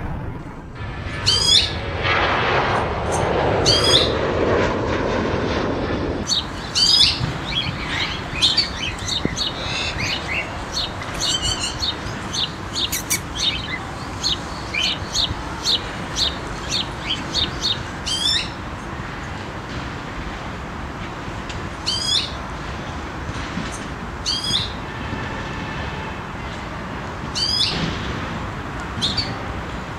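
Small songbirds chirping and tweeting, short calls every second or so, over a steady low background rush. A louder rushing noise swells for a few seconds near the start.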